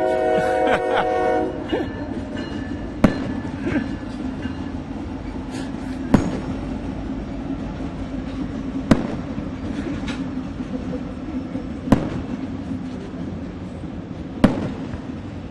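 A train horn sounds a chord that stops about a second and a half in, then the train keeps rumbling steadily past. Over it, firework shells go off with five sharp bangs, about three seconds apart.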